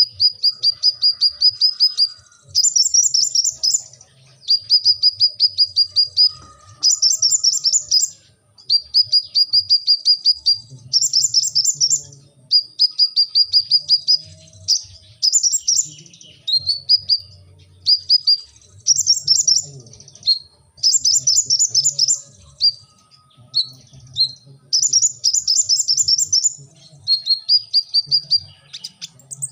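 Sunbird singing continuously: fast trilled phrases of high, sharp chirps, one to two seconds each. Phrases on a lower trill alternate with higher, buzzier ones, with short pauses between.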